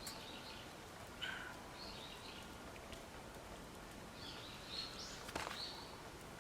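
Wild birds calling with short chirps, several coming close together in the second half, over a steady outdoor hiss, with a few sharp clicks or pops, the strongest about five seconds in.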